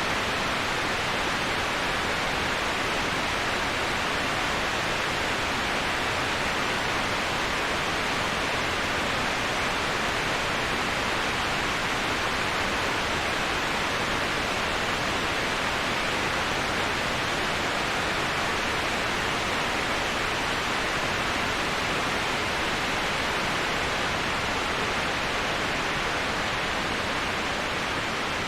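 Waterfall rushing: a steady, even hiss of falling water, strongest in the upper-middle range, with no change and no distinct splashes.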